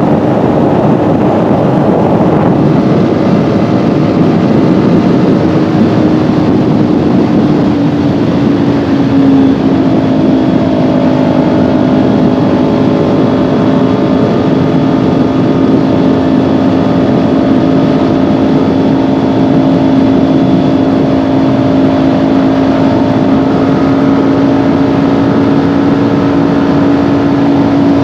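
Kawasaki Ninja 400's parallel-twin engine running at a steady cruise, its note easing a little lower about a third of the way in and then holding level, with wind and road noise rushing over it.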